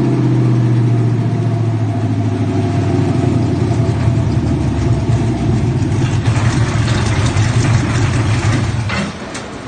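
Chevrolet LQ9 6.0-litre V8 with a Texas Speed Stage 2 cam, settling from a rev into a steady idle. The sound cuts off about nine seconds in.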